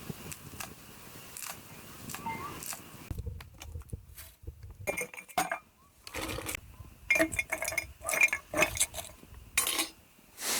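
Dishes and cooking utensils clinking and knocking against each other: a run of sharp strikes with a brief ring, starting about halfway through and loudest near the end.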